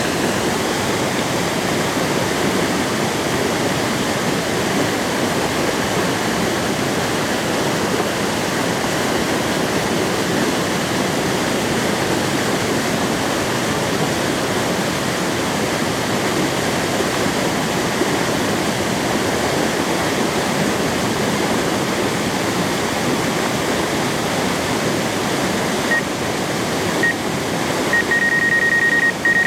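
Waterfall rushing steadily. Near the end a thin high tone comes in, first as short blips, then held.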